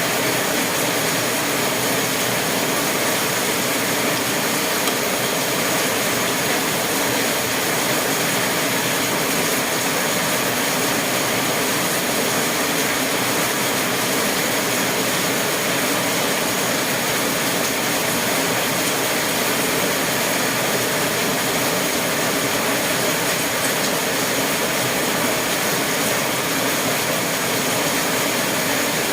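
Steady, unchanging rushing noise with a faint high whine running through it.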